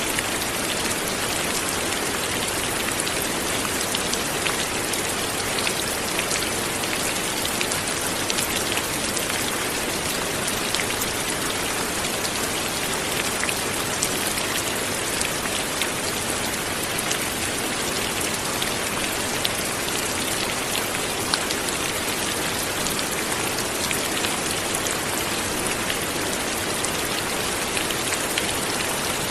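Light rain falling steadily, an even patter of many small drops with no thunder or wind.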